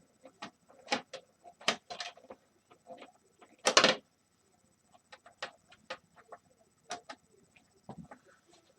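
Scattered clicks, taps and knocks of a space heater's screws and plastic housing being handled during disassembly, with one louder rasping rattle lasting under half a second about four seconds in.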